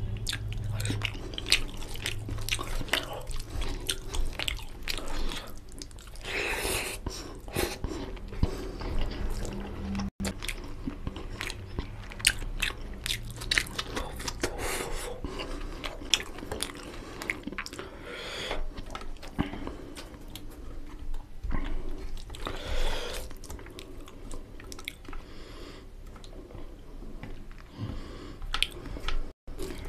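Close-miked chewing of a mouthful of fried rice and chicken curry: wet, open-mouthed smacking with many sharp clicks.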